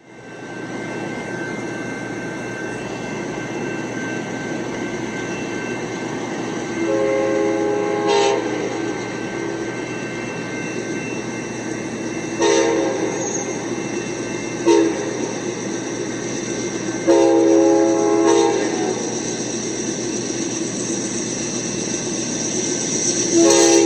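An Amtrak train's horn sounding a series of blasts over the train's steady rumble: a long blast about seven seconds in, two short ones, a second long blast, and another short one near the end.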